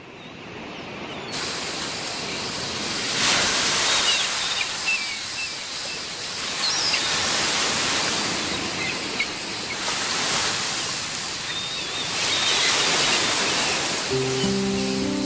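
Mediterranean surf: waves breaking and washing against a rocky shore, the noise swelling and easing every few seconds. Music comes in near the end.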